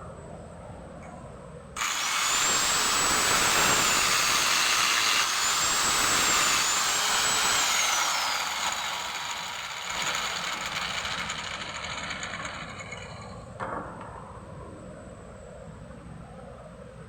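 A handheld power tool, likely a drill, switches on about two seconds in and runs loud, its high whine wavering in pitch as it works the material. It then slows and fades over several seconds, and a single knock follows near the end.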